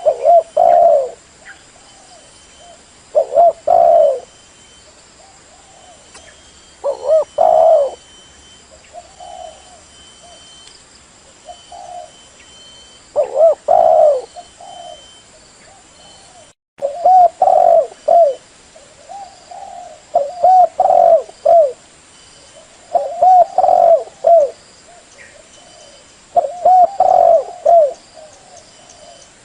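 Female spotted dove cooing: short phrases of a few low coos, repeated every two to three seconds, with a brief cut-out of the sound about two-thirds of the way through. It is a hen's call of the kind used to spur a male decoy dove into cooing.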